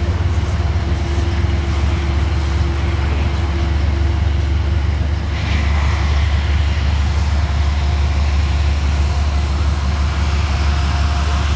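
Metro-North commuter train rolling past: a steady low rumble with a faint steady whine over it.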